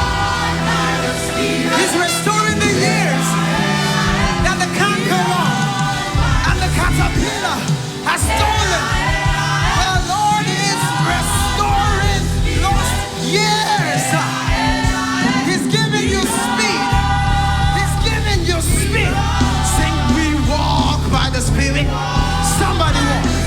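Live gospel praise-and-worship music: a band with heavy bass and voices singing, the bass dropping out in short stretches and coming back strongly for the last several seconds.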